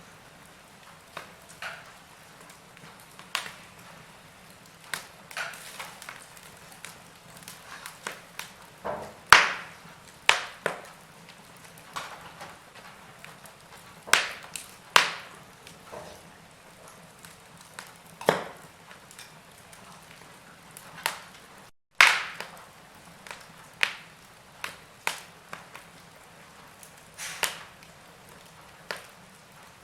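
Logs burning in a fireplace, crackling with irregular sharp pops and snaps over a faint steady hiss. The loudest pops come about nine seconds in and about twenty-two seconds in, the second right after a split-second dropout in the sound.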